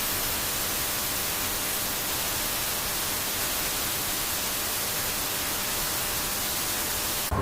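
Steady static-like hiss that cuts off abruptly near the end.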